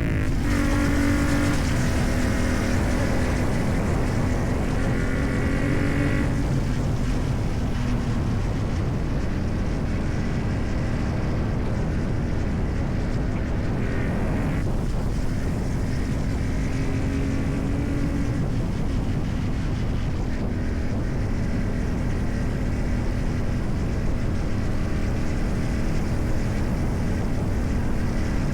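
CFMoto 450MT's parallel-twin engine running under way through a modified exhaust, its note rising and falling a few times as the revs change. A low rumble of road and wind noise runs underneath.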